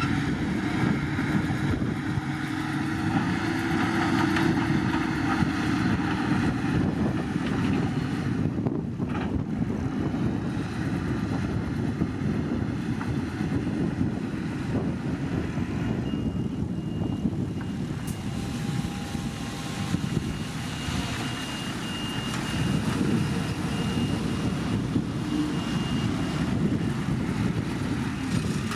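Heavy earthmoving machine's diesel engine running steadily, with a faint thin high tone joining in about halfway through and stopping near the end.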